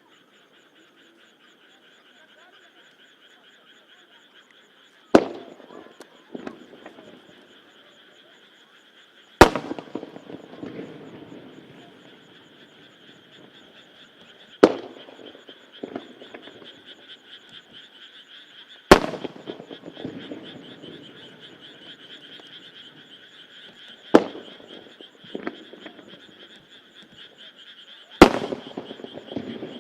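Aerial firework shells bursting one at a time: six loud bangs about four to five seconds apart, most followed by a fainter bang about a second later and a rumbling tail. Under them a chorus of frogs calls steadily.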